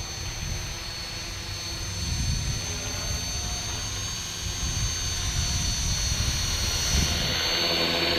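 RC helicopter in flight: a steady high motor and rotor whine, growing louder near the end, over wind rumbling on the microphone.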